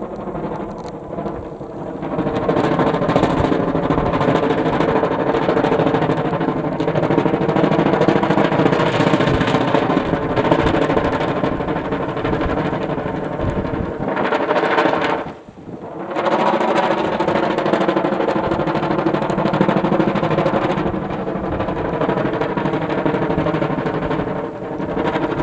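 Kite buzzing in strong wind: a loud, rapid fluttering rattle with a steady droning pitch that builds up over the first couple of seconds, fades out for about a second a little past the middle, then picks up again.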